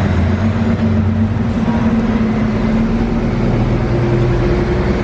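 A motor running steadily, with a low hum that shifts slightly in pitch about a second and a half in.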